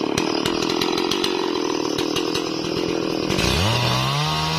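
Stihl MS440 two-stroke chainsaw running at full throttle, cutting into a Bayur tree trunk, with scattered ticks over the steady engine note. About three and a half seconds in, a deeper engine note rises in pitch and holds.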